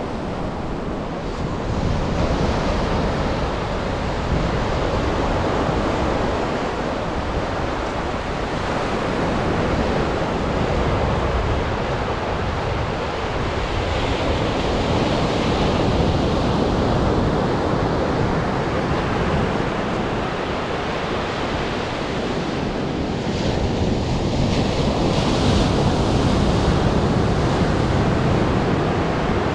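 Atlantic surf washing onto a sandy beach, a continuous rush that swells and eases several times as waves break, with wind buffeting the microphone.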